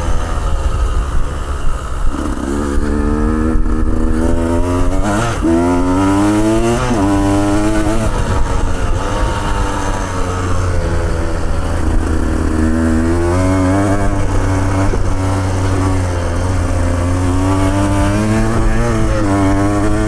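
Two-stroke motorcycle engine under way. Its pitch rises and falls again and again as the throttle is opened and eased off, over a steady low rumble.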